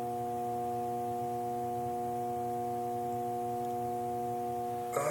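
Furnace humming steadily with several fixed electrical tones while power stays on the unit after it has cut out. Near the end a brief clunk, and part of the hum drops away.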